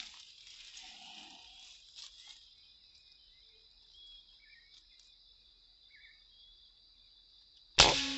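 Steady high-pitched chirring of insects, then near the end a single sharp, loud shot from an air rifle.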